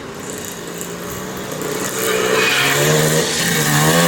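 Vintage motocross bike engines revving and getting steadily louder as the bikes come closer, the pitch rising and wavering with the throttle.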